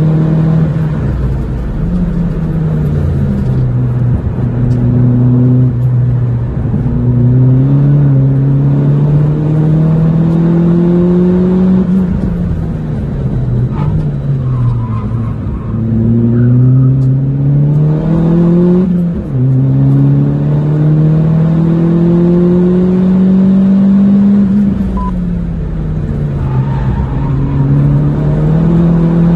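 Mitsubishi Colt Ralliart's turbocharged 4G15T four-cylinder engine, with a turbo-back exhaust, heard from inside the cabin under hard track driving. The revs climb steadily as it pulls, then fall sharply between pulls, several times.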